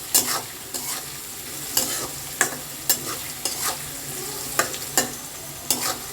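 Potatoes and carrots frying in oil in a kadai with a steady sizzle, stirred so that the utensil scrapes and knocks against the pan about nine times, unevenly spaced.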